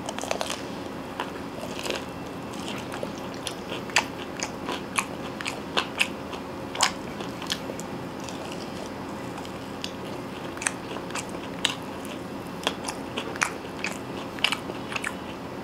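Close chewing of crispy fried chicken wings (KFC Hot Wings), with sharp, irregular crunches of the breaded coating every second or so. A faint steady hum runs underneath.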